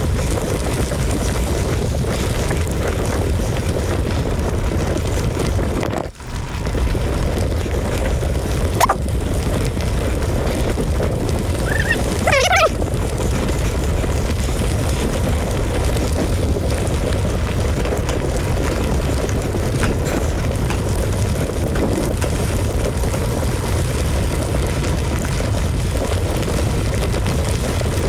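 Steady low rumble of wind buffeting a camera microphone on a mountain bike ride, with a sharp click about 9 seconds in and a short squeak a few seconds later.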